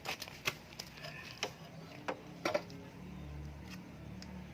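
Scattered sharp clicks and knocks, about six in four and a half seconds, of tools and parts being handled while a horn loudspeaker is being fitted, over a faint low hum.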